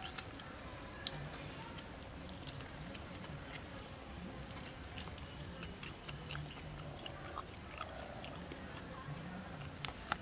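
Close-up chewing and biting of raw duck meat eaten by hand, with many small wet clicks and smacks scattered throughout.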